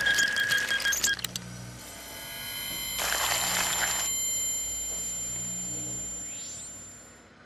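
Fax machine sounds: clicking with a steady tone that cuts off about a second in, then a low hum pulsing on and off under several steady high tones. A burst of hiss comes about three seconds in, a short rising whine near the end, and everything fades out.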